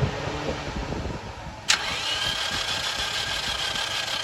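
Starter motor cranking a Toyota Corolla XLI engine that does not catch. The cranking cuts in sharply about one and a half seconds in with a steady whine, on a battery that is running down.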